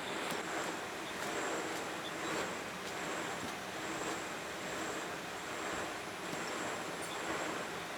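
Steady machine noise, with a thin high whistle that comes and goes and a few faint light clicks.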